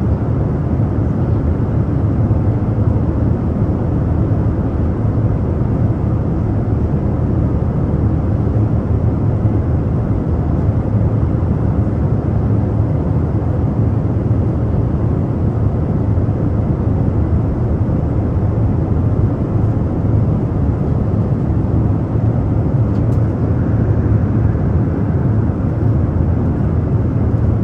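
Airliner cabin noise in flight: the steady low rumble of the engines and airflow, even and unchanging.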